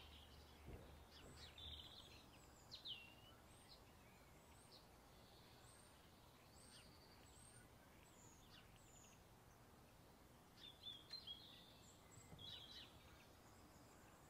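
Faint birdsong: scattered short chirps and whistled glides, a little louder around three seconds and again around eleven to thirteen seconds in.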